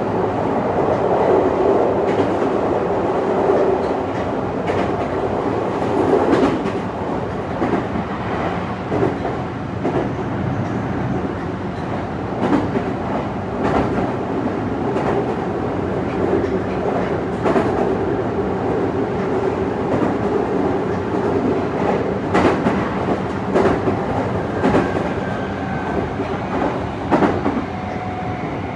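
Meitetsu 3500 series electric train running between stations, heard from inside the passenger car: a steady rolling rumble with repeated clacks of the wheels over rail joints. A faint steady whine comes in near the end.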